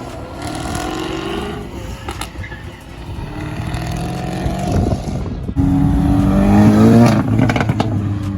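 Car engines accelerating past: one rises in pitch early on, and a louder one comes in about five and a half seconds in, its note climbing as it revs up, then easing off near the end.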